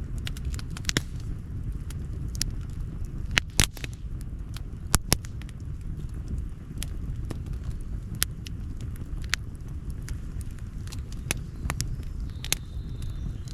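Outdoor campfire crackling: irregular sharp pops and snaps over a steady low rumble, with a few louder pops a few seconds in.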